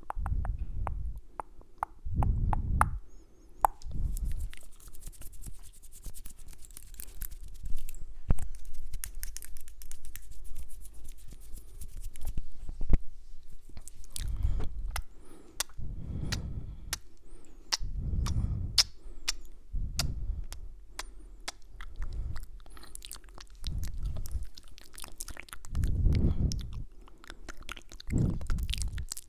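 Close-miked ASMR mouth sounds: rapid wet clicks and kissing sounds, with soft low puffs every few seconds.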